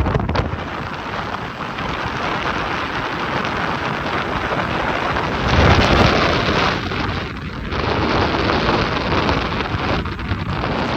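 Wind buffeting the microphone: a loud, steady rush with heavy low rumble that swells about halfway through.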